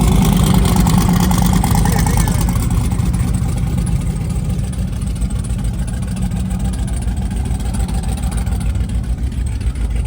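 Car engine idling, a deep steady rumble that slowly gets a little quieter.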